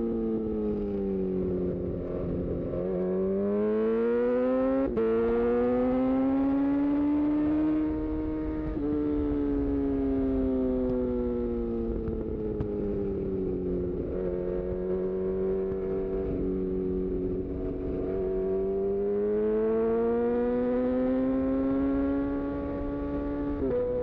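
2018 Honda CB1000R's inline-four engine through a full-system Black Widow aftermarket exhaust, accelerating and easing off on a flowing road, its pitch rising and falling several times. About five seconds in the rising note is cut by a sharp quickshifter upshift that drops the pitch at once, with smaller gear-change steps later on.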